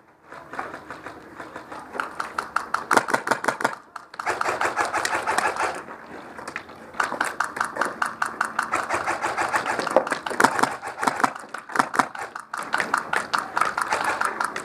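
Airsoft rifles firing on full auto: long bursts of rapid shots, about a dozen a second, with brief pauses between bursts.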